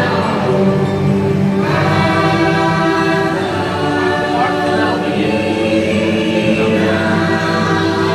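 Choir singing long held notes over a music backing, the ride's soundtrack.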